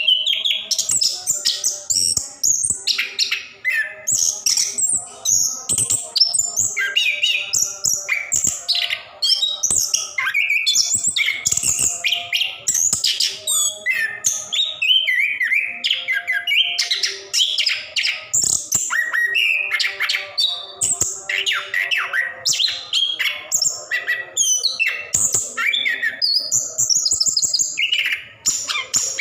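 Orange-headed thrush (anis kembang, plontang type) singing a long, unbroken, rolling song of quick, varied whistles and chirps with no pauses.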